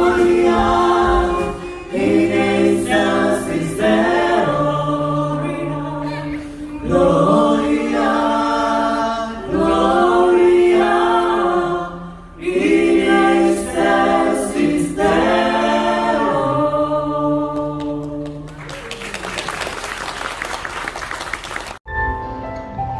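A choir singing a carol in phrases until the song ends about 18 seconds in, followed by about three seconds of applause. The sound then cuts off sharply, and soft music comes in near the end.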